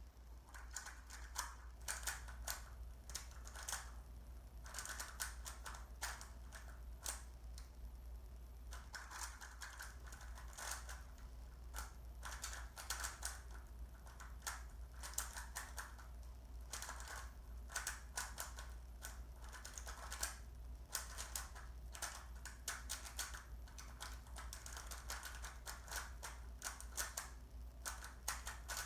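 Rubik's cube being speed-solved: rapid plastic clicking of the layers turning, in quick flurries of turns broken by short pauses.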